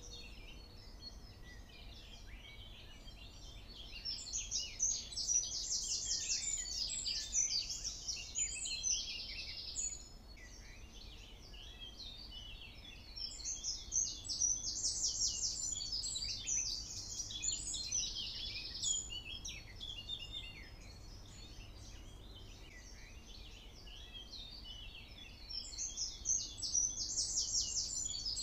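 A songbird singing long phrases of quick chirps and fast high trills, in three bouts separated by pauses of several seconds, over a faint low hum.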